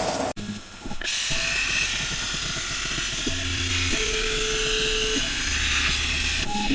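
CNC plasma cutter cutting steel plate: a steady hiss from the torch, with humming machine tones that shift in pitch partway through. The sound drops out abruptly for about half a second just after the start.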